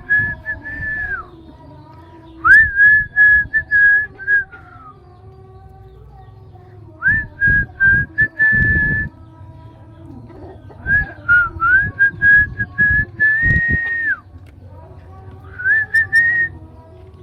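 Whistling in five short bouts, each a steady high note that slides up at the start and drops at the end, broken into quick pulses. Low thumps like breath on the microphone come with each bout.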